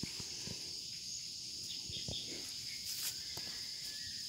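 Steady high-pitched insect chorus trilling without a break, with a few faint clicks and short chirps over it.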